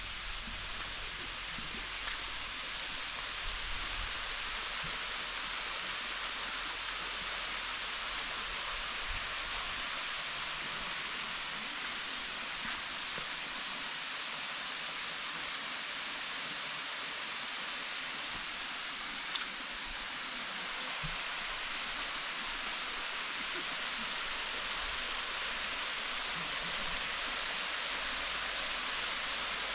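Waterfall's water rushing in a steady, even hiss.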